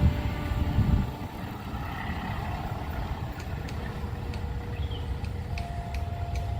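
Low rumble of heavy vehicles passing at a railway level crossing, loudest in the first second, then settling to a steady rumble.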